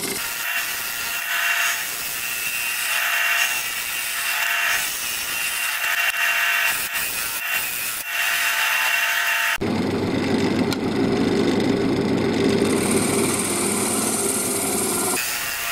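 A gouge cutting into a spinning wood blank on a lathe, in repeated passes that swell and fade about every second and a half. About nine and a half seconds in, the sound changes abruptly to a lower, steadier rubbing, and the cutting pattern returns near the end.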